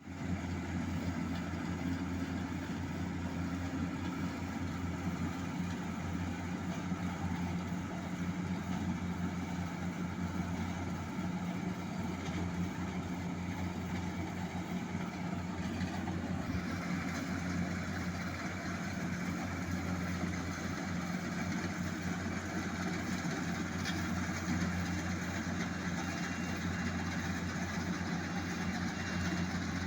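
Kubota tractor's diesel engine running steadily with a low, even hum. Its note brightens a little about halfway through.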